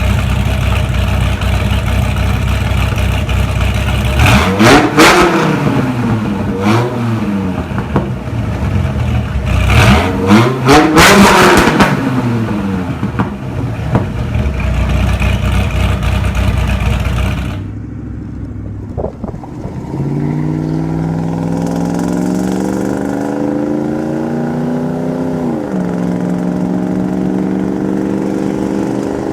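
Dodge Viper GTS V10 exhaust idling, with a quick throttle blip about four seconds in, a smaller one near seven seconds, and a longer double rev around ten to twelve seconds. Then the sound cuts abruptly to another engine's exhaust, which climbs steadily in revs for about five seconds and drops back to a steady run.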